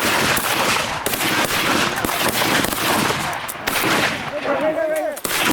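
Several shotguns firing in a rapid, overlapping volley, many shots close together, thinning out about four seconds in.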